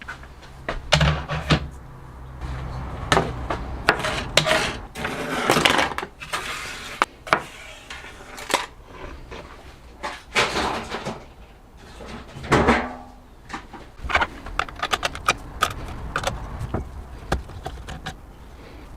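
Workshop bench work: metal parts and hand tools clinking, knocking and scraping as they are handled, in a string of sharp clicks with a few longer scrapes.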